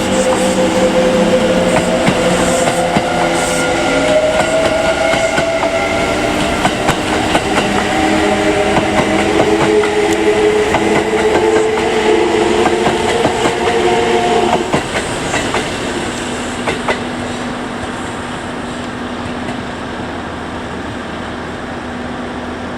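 Kintetsu electric train's traction motors whining, with several tones climbing in pitch over the first few seconds as the train gathers speed, and wheels clicking over rail joints. The whine cuts off about fifteen seconds in, leaving a lower, steady hum.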